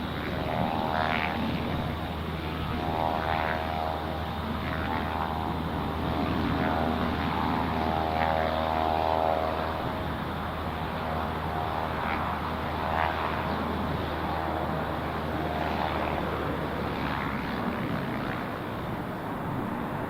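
Propeller aircraft engine running, a steady drone with a pitched hum that swells and fades a little over the seconds.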